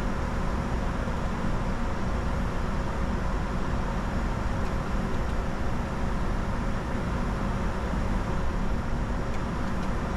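Steady flight-deck noise of a Bombardier Challenger 605 business jet in descent: a constant rush of airflow and engine hum, with a faint steady whine.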